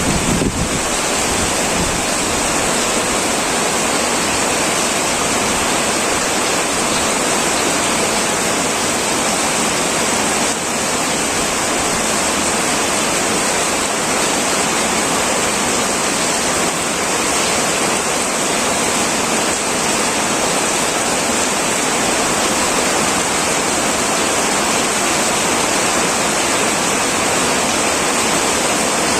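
Heavy rain pouring onto an old tin metal roof, a dense, steady hiss of drops at an even level, with a short low rumble at the very start.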